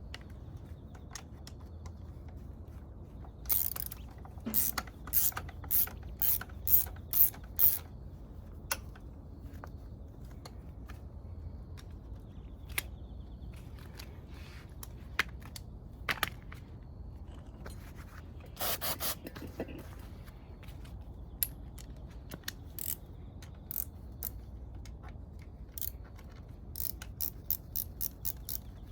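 Ratchet wrench clicking in short strokes, about two a second for several seconds, then a longer rasping stroke midway and a quicker run of clicks near the end, as engine fasteners are worked during disassembly.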